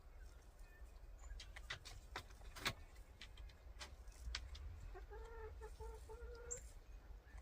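Scattered sharp taps and clicks, one louder knock near the middle, then a backyard hen calling with a short broken run of clucks at a steady pitch about five seconds in.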